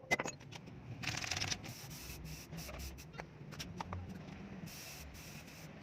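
Two short bursts of rubbing or scraping, about a second in and again near the end, with scattered clicks and knocks over a low steady hum.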